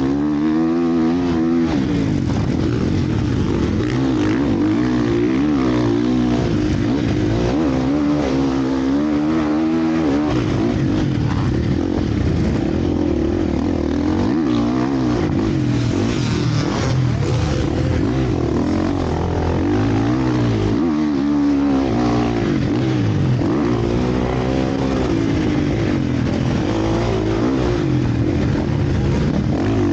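Several motocross bikes' engines revving hard, their pitch repeatedly rising and falling as the riders accelerate, shift and ease off, overlapping without a break.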